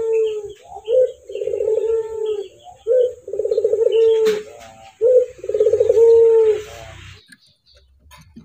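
Male ringneck dove (burung puter) cooing: three phrases, each a short note followed by a longer rolling coo, then it falls quiet near the end.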